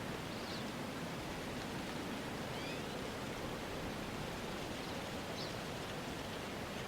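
Steady outdoor night-style ambience: an even rustling hiss like wind, with three faint, short high bird chirps spread through it.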